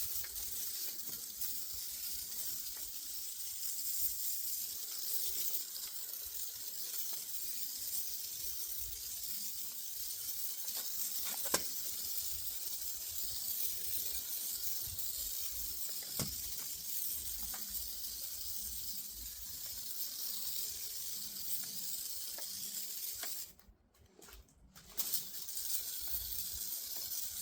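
Sprayer hissing steadily as it mists rinseless wash solution onto a dirty car panel as a pre-soak, cutting out briefly near the end and then starting again.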